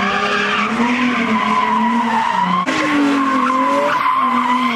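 A car doing a burnout: tyres squealing continuously over a high-revving engine, the pitch wavering up and down, with an abrupt change a little past halfway.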